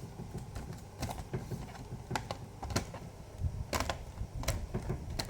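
Irregular clicks and light knocks of a plastic laptop casing and parts being handled and fitted back together during reassembly.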